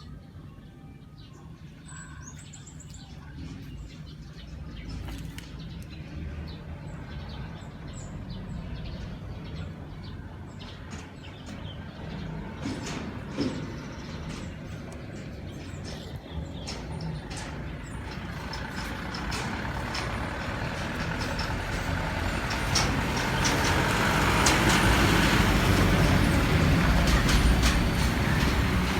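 A motor vehicle engine running, with a low rumble and rushing noise that grows steadily louder over the last third.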